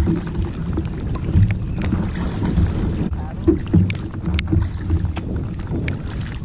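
Paddling a tandem kayak: blades dipping and splashing, with scattered short sharp drips and knocks, over a constant low rumble of wind on the microphone.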